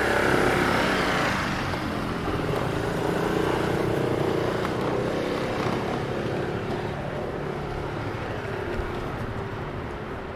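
Street traffic: a motor vehicle passes close, loudest at the start, and its engine tone holds steady through the middle before fading away toward the end.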